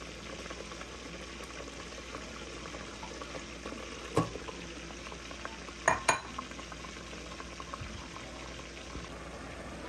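Onion and tomato base cooking in oil in a stainless steel pot, a steady sizzling hiss. A sharp knock comes about four seconds in and two more close together around six seconds in, as chopped leafy greens go into the pot.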